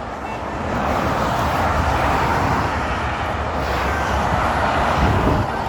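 Heavy truck traffic passing close by on a road: a steady rush of engine and tyre noise that builds over the first second.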